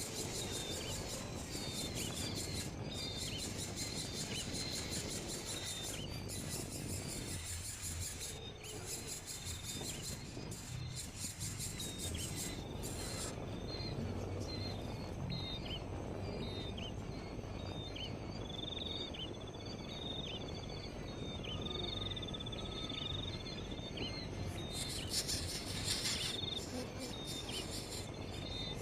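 A bird giving short, sharp chirps over and over, roughly one a second, with a few longer trilled notes in the middle, over a steady high insect buzz.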